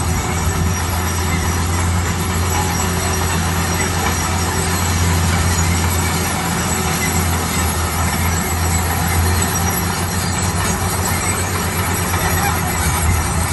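Bulldozer running steadily under load: a constant low diesel hum with a broad grinding, rattling noise over it.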